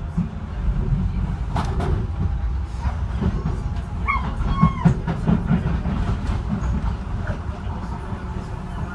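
Docklands Light Railway B2K train running, heard from inside the car: a steady low rumble with scattered clicks and knocks.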